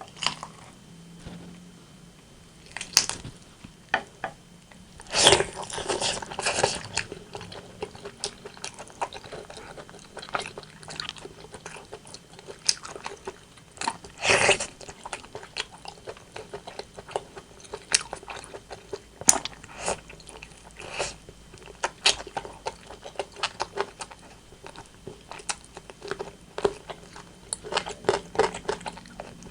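Close-miked eating of a rotisserie chicken: biting and chewing with crunching, in a run of short crackly bites, the loudest clusters about five to seven seconds in and again near fourteen seconds.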